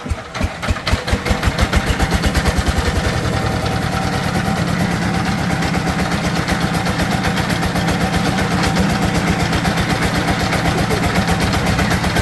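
Chinese power tiller's single-cylinder diesel engine catching on a start: slow separate firing beats at first that quicken over about two seconds, then settling into a steady running beat.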